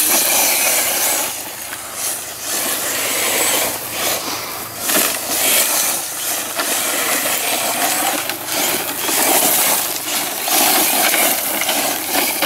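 Electric 1/10 scale ECX Torment RC short course truck driving over rough dirt ground: a hissing rush of tyres and loose ground that rises and falls as it speeds up and slows.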